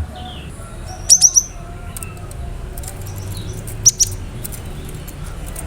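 Cinereous tit giving sharp, high chipping notes: a quick burst of three about a second in, then two more shortly before the four-second mark, with faint clicks between them.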